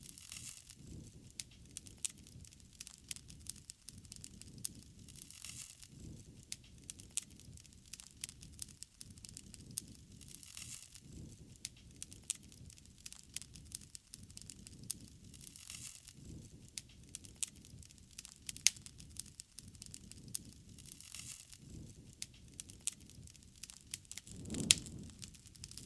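Wood fire crackling, with sharp pops scattered throughout and a low rush that swells and fades every few seconds.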